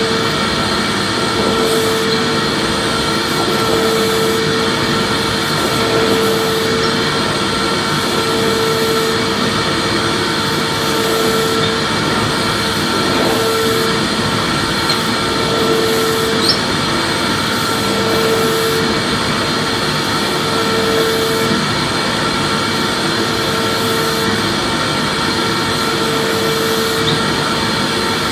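Vacuum cleaner running steadily: a continuous rushing whir with a constant motor whine, and a lower tone that swells and fades about every two seconds.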